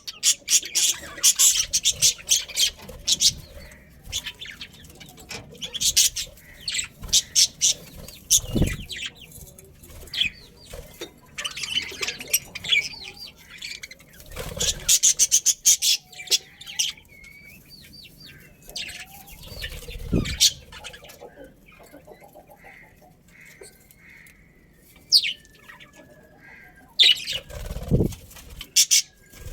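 Budgerigars chirping and chattering in quick high bursts, with quieter gaps between them and a few dull thumps.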